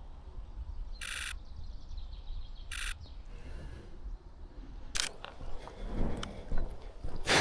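Two short bursts of rapid camera shutter clicks, about a second in and again near three seconds in, over outdoor wind rumble on the microphone. Sharp knocks and rustling of handling or steps follow in the second half.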